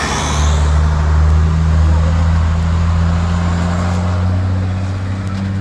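Tow truck engine running close by as the trucks drive past: a loud, steady low drone that eases slightly toward the end.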